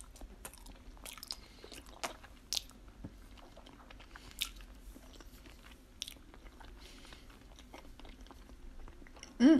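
A person chewing a mouthful of raw salmon sashimi: soft wet chewing with scattered sharp mouth clicks, irregular and unhurried. A brief hummed voice sound comes at the very end.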